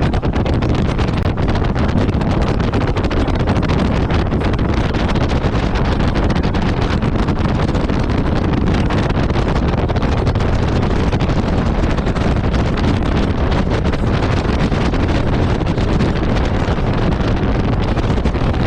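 Heavy, steady wind buffeting the microphone on a moving jet ski, with the watercraft's running engine and water rush beneath it.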